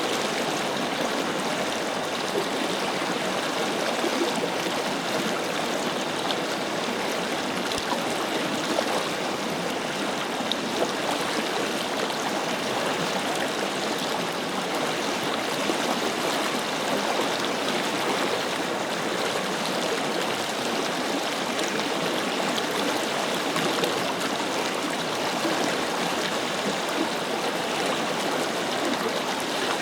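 A forest river flowing over stones, a steady rush of water with small gurgles and splashes.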